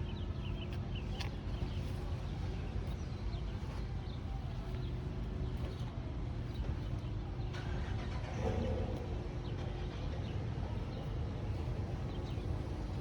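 Steady low rumble of outdoor background noise, with faint scattered clicks and chirps and a brief pitched sound about two-thirds of the way through.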